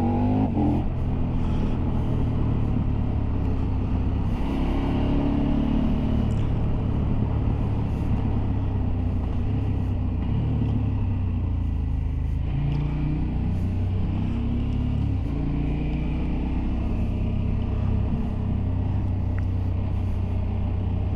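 Motorcycle engine running steadily under way, its note rising and falling a few times, with steady wind rush.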